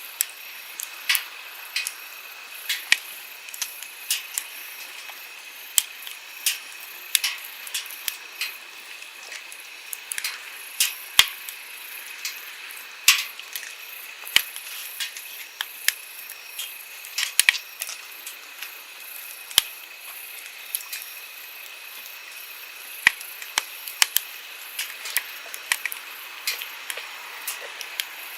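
Wood campfire crackling, with frequent sharp pops and snaps at irregular intervals, over the steady rush of a flowing stream.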